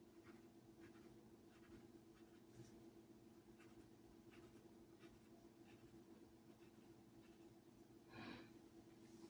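Faint scratching of pen strokes drawing on a board, over a steady low hum, with one short louder sound near the end.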